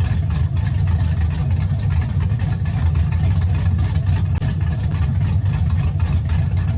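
2011 Chevy Caprice PPV's V8 with a TSP Stage 3 blower cam, idling steadily with a deep, uneven exhaust note.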